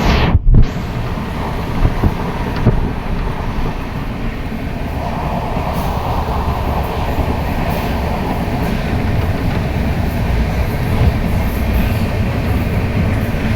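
Train in motion: a steady, loud rumble with faint wheel clatter, and a sharp jolt right at the start.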